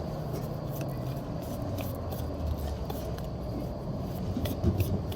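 Tarot cards being shuffled by hand: a run of light, irregular flicking ticks over a steady low rumble.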